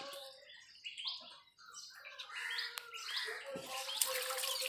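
Small birds chirping, a run of short rising chirps repeated several times a second. Near the end, water is poured from a can and splashes over a cut fish on a wooden block.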